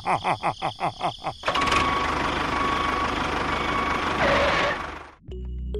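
A quick run of short bouncy notes, each sliding down in pitch, then a steady engine running noise with a thin whine for about three and a half seconds that stops suddenly.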